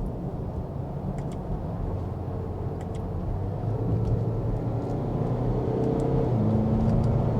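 Range Rover Velar accelerating, heard from inside the cabin: a low engine and road rumble that climbs slowly in pitch and loudness, with the engine note dropping about six seconds in as the automatic gearbox shifts up.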